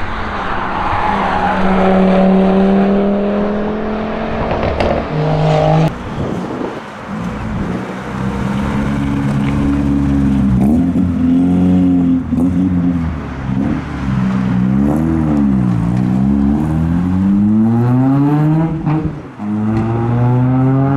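Tuned Volkswagen-group car engines and exhausts revving and accelerating. The engine note climbs, drops off sharply about six seconds in, then rises and falls again several times with quick rev blips, with scattered sharp cracks over it.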